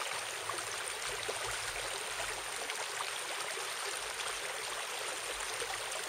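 Steady rushing background noise, like running water, with a few faint small ticks as a sharp knife cuts through a deer's leg tendon.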